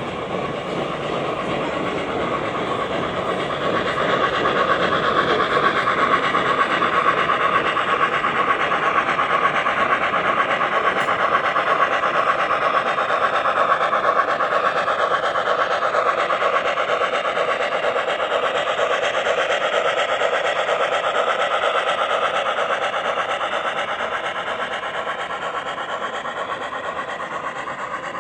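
Model train running along its track: a steady whirring rattle of wheels and motor that grows louder about four seconds in and fades gradually near the end.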